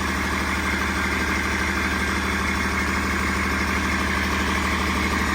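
Hino J08E-VB 7.7-litre turbocharged inline-six diesel engine idling steadily.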